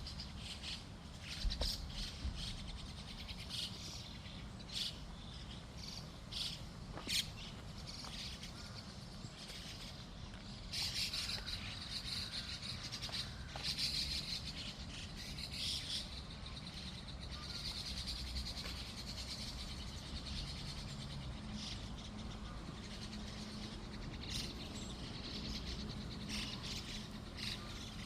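Small birds calling: short, sharp chirps here and there, then longer, busier twittering phrases from about ten seconds in, over a steady low hum.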